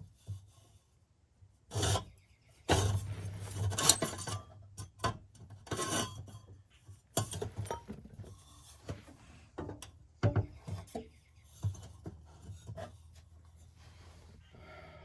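Metal exhaust pipe sections scraping and knocking against each other as they are handled and test-fitted, in irregular bursts with a longer scrape about three seconds in. A faint steady low hum runs underneath.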